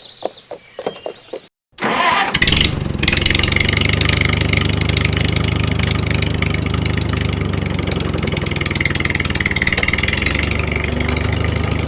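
A small engine starting about two seconds in, then running steadily at idle.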